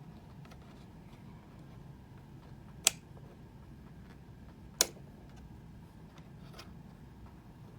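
Two sharp clicks about two seconds apart, with a fainter one later, over a low steady hum.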